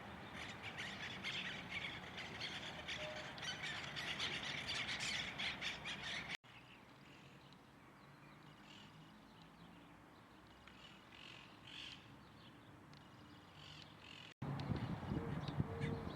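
A flock of birds calling at once, a dense chorus of short, overlapping calls. After an abrupt cut the calls become fewer and fainter, and after another cut near the end a louder passage with lower-pitched sounds begins.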